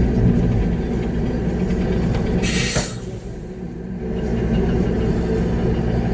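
Concrete mixer truck's diesel engine running steadily under load, heard from inside the cab as a low rumble. About two and a half seconds in comes a short burst of hiss, and the engine note drops for a moment before building back up.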